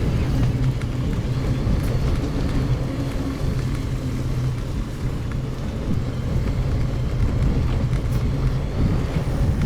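Steady low rumble of tyres and wind from a mountain bike riding a gravel forest road, sped up to double speed, with a few faint clicks.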